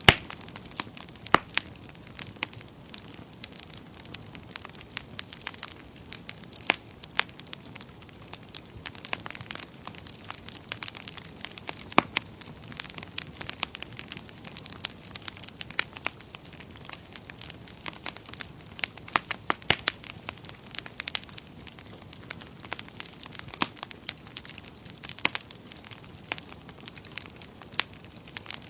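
Crackling fire in a fireplace: irregular sharp pops and snaps, several a second, over a faint hiss.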